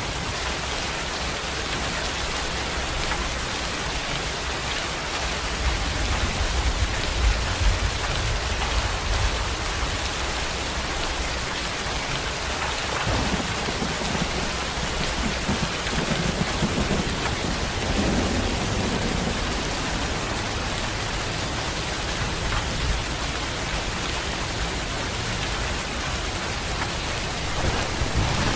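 Steady rain falling and pattering on a surface, with a low rumble of thunder from about five seconds in to about twelve.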